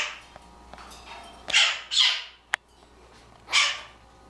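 Blue-crowned conure giving four short, harsh squawks, with a single sharp click about two and a half seconds in.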